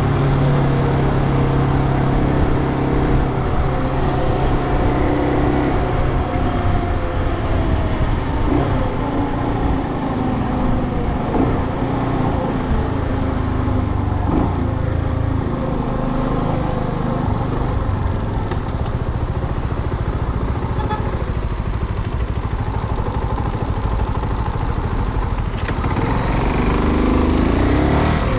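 Brixton Cromwell 250's single-cylinder engine running under a rider in traffic, its note changing with the throttle, then climbing sharply near the end as the bike accelerates.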